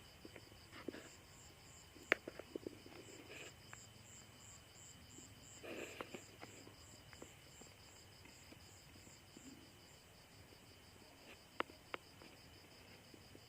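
Night insect, cricket-like, chirping in a rapid, even, high-pitched pulse that keeps on steadily, with faint rustling and a few sharp ticks near the start and near the end.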